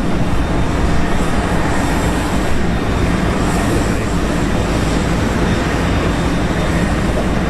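Jet airliner engines running: a loud, steady rush of engine noise that holds unchanged throughout.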